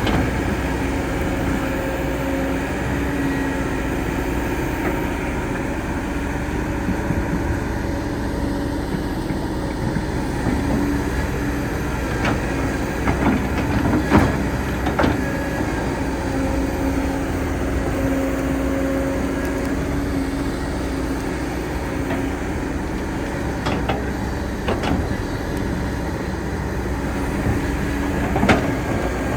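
Excavator's diesel engine running steadily with a constant hum, with a cluster of sharp metallic knocks around the middle and another near the end.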